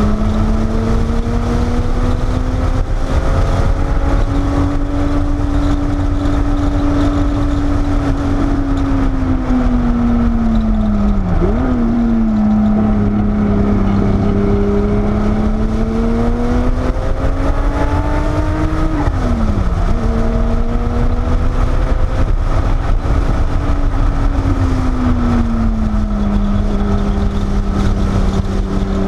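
Porsche 930 Turbo's air-cooled turbocharged flat-six, heard from inside the cabin at racing speed, its pitch rising and falling through the corners, with two sharp drops in pitch about 11 and 19 seconds in, over steady road and wind noise. The engine is running with its exhaust header slip joints freshly repaired after header leaks that cost it boost.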